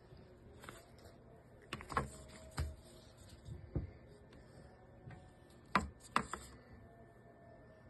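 A few irregular knocks and clicks of hard objects being handled and set down, loudest in two clusters about two seconds and six seconds in.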